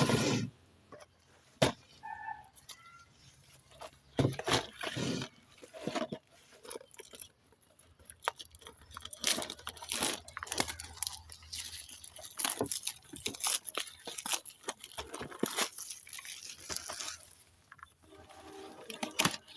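Candy being crushed in a meat grinder: irregular crunching, cracking and sharp clicks. Isolated clicks at first give way to dense crackling for most of the middle, over a faint low hum.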